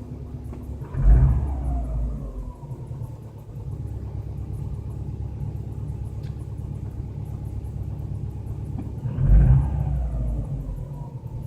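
Car engine, its oil treated with X-1R additive, idling steadily. It is blipped twice, about a second in and again near the end, each rev rising quickly and then settling back to idle over a couple of seconds.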